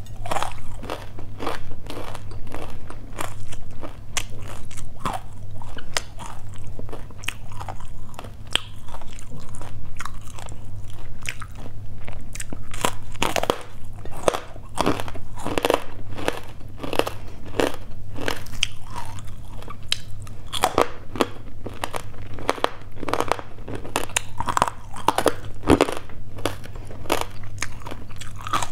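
Crispy fried pork belly being bitten and chewed close to a clip-on mic: a dense, irregular run of crisp crunches all through, over a steady low hum.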